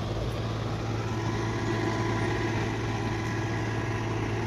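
Heavy diesel engine of earth-moving machinery running steadily at a constant speed, an even low drone.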